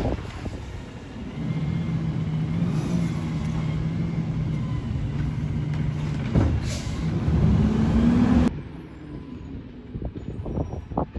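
McNeilus Autoreach side-loader garbage truck running, its engine held at a steady speed, with a short hiss of air about six and a half seconds in. The engine pitch then rises before the sound cuts off suddenly to quieter background noise.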